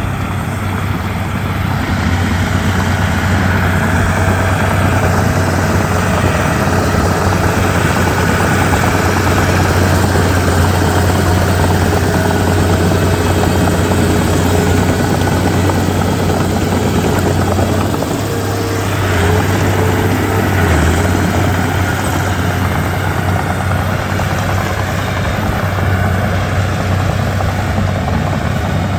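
Komatsu D31P crawler bulldozer's diesel engine running steadily with a deep, even drone.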